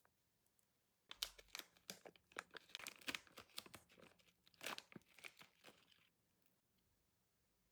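Plastic crinkling and crackling as it is handled, in a dense run of crackles lasting about five seconds from about a second in.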